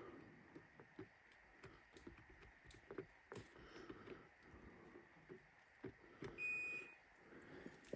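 Faint scattered clicks, then a single high electronic beep lasting under a second about six and a half seconds in, from a Craftsman garage door opener's controls as its timer is being switched off.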